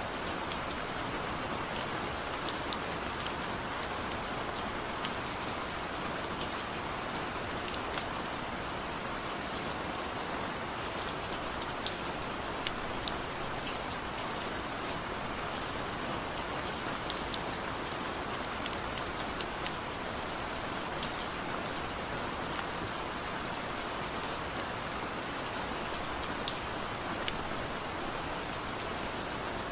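Steady rain falling on a surface: a constant, even hiss with scattered distinct drop ticks throughout.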